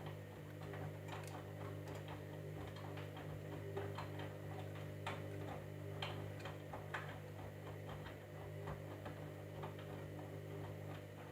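Candy washing machine running mid-cycle: a steady low motor hum with irregular light clicks and taps, several a second, from inside the drum.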